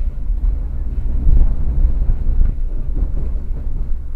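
Moving passenger train heard from inside the carriage: a steady low rumble that swells and eases unevenly.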